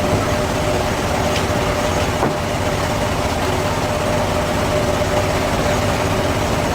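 Sawmill machinery running steadily: a constant engine drone with a held whine, and a faint click a little over two seconds in.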